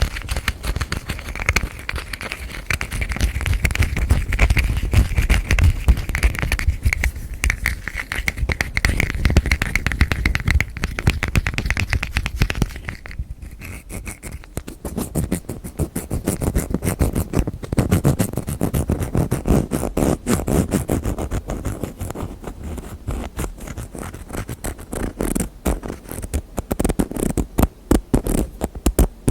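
Fast hand tapping and scratching on small hard objects, close to the microphone: a dense run of small clicks. They break off briefly about thirteen seconds in, then carry on duller and lower.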